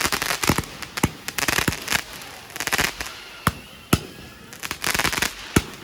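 Fireworks going off: sharp bangs at irregular intervals, about a dozen in all, mixed with short bursts of crackling.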